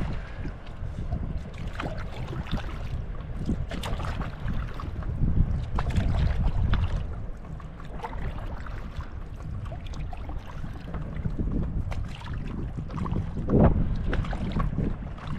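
Paddle strokes dipping and splashing in lake water every second or two, under steady low wind rumble on the microphone.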